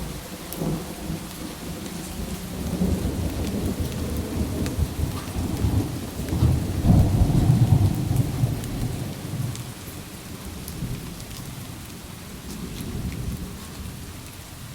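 Steady rain with a long rolling thunder rumble that builds, is loudest about seven seconds in, then fades away.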